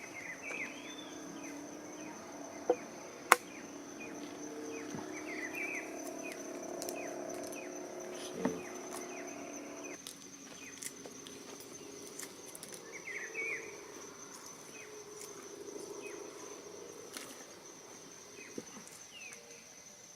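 Insects trilling steadily in a high, unbroken tone, with many short bird chirps over it. Two sharp knocks come about three seconds in, and another near eight seconds.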